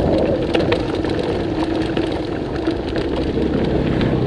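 Wind buffeting the microphone over a mountain bike rattling and clicking as it coasts down a steep, rough descent.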